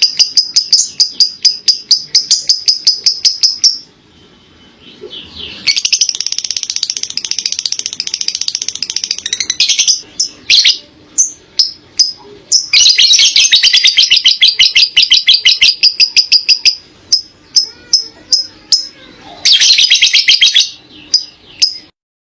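Lovebird singing ngekek panjang, the long chattering song prized in lovebird keeping: runs of rapid, high-pitched chattering notes lasting several seconds each, broken by short pauses and single chirps. It cuts off abruptly near the end.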